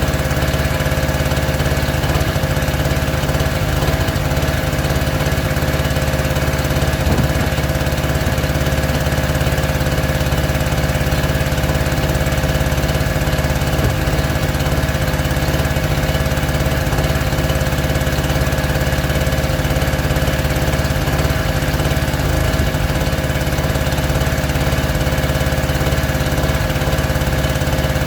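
A small engine running steadily at one constant speed, a continuous loud mechanical hum with no change in pitch.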